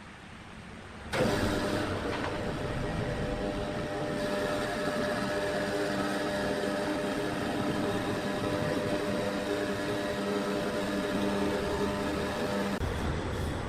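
Sawmill machinery running steadily, with several steady humming tones over a rumbling noise. It starts suddenly about a second in and shifts near the end.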